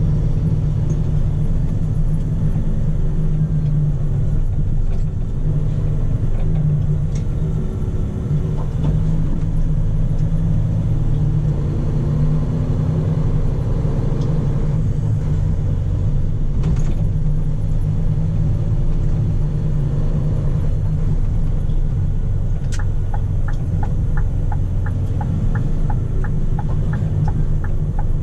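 Scania P400 truck's 13-litre six-cylinder diesel running steadily with a deep rumble. Near the end a regular ticking, about two or three a second, starts up over it.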